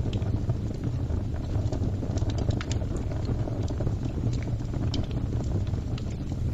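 Fire crackling: a steady low rumble with frequent short, sharp snaps and pops scattered irregularly through it.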